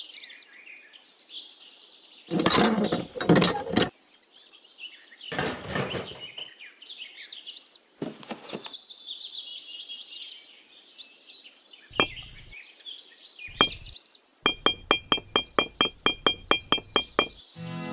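Birds chirping steadily, broken by several loud knocks and, near the end, a rapid even run of about twenty clicks, some seven a second.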